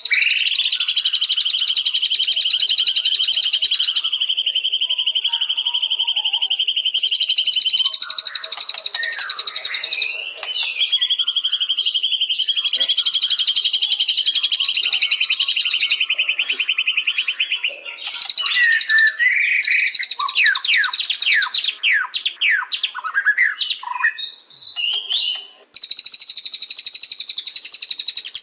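White-rumped shama (murai batu) singing. Its song runs as blocks of fast, high trilling a few seconds long over a long buzzy held note, and breaks into a run of varied whistled phrases and quick downward-sliding notes about twenty seconds in.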